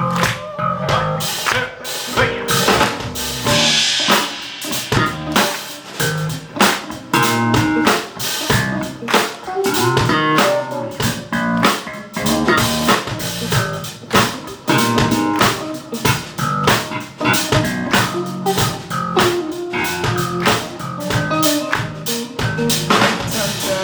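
Live rock band playing an instrumental passage: guitar over a drum kit keeping a steady beat.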